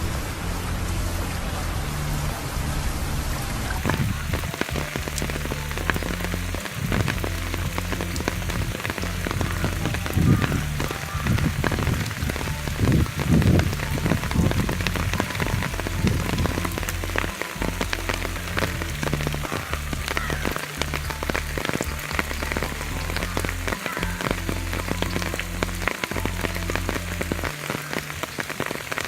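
Steady monsoon rain: a dense, even hiss of rainfall with many individual drops ticking on surfaces close by, over a low rumble that falls away near the end.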